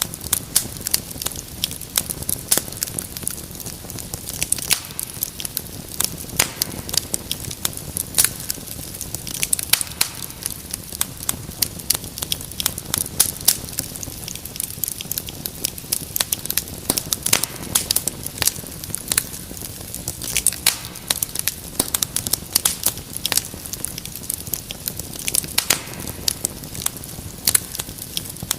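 Wood fire in a fireplace crackling, with frequent sharp irregular pops and snaps over a soft steady hiss.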